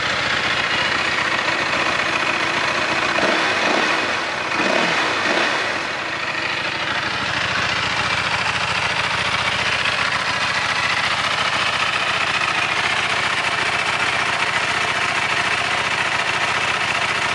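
Buell 1125R's V-twin engine idling through the stock exhaust, with a couple of brief swells in level a few seconds in.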